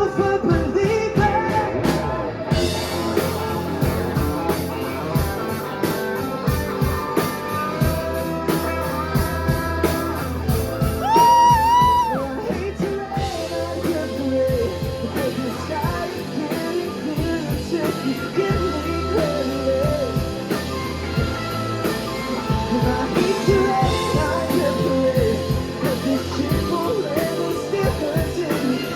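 Live rock band playing with drums and guitar under a singer's held notes; about eleven seconds in the voice climbs to a high sustained, wavering note, the loudest moment.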